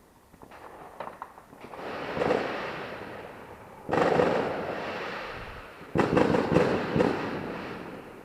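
Fireworks being set off in the neighbourhood: a few small pops, then three loud bursts about two seconds apart, each fading slowly, the last with a spell of crackling.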